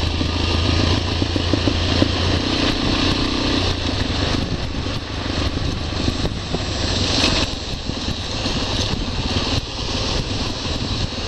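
Motorcycle riding along with its engine running steadily and wind rushing over the microphone. The engine hum is plainest in the first couple of seconds, then is mostly buried under the wind.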